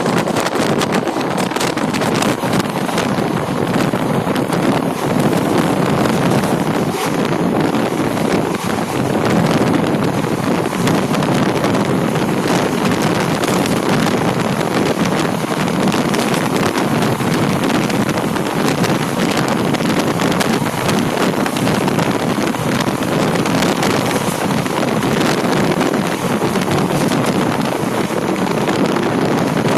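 Steady rush of a moving train running, with wind buffeting the microphone.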